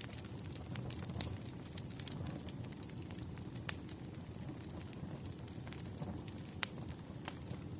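Wood fire crackling: a steady low rumble of burning logs with scattered sharp pops and snaps, two louder pops about halfway through and near the end.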